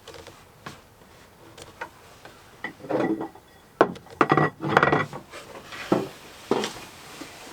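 Hands handling tools and parts in a cramped boat compartment: scattered clicks and knocks, with louder scraping and clattering from about three to five seconds in.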